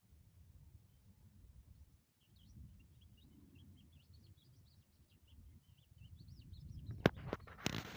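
Small birds twittering faintly in quick, repeated chirps over a low rumble. Near the end comes a sharp knock, then loud rustling.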